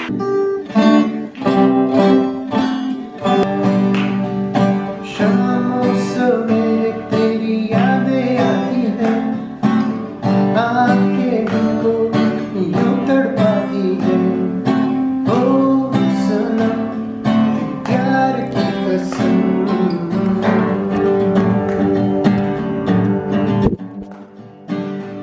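Acoustic guitar played by hand, a steady run of strummed and plucked chords.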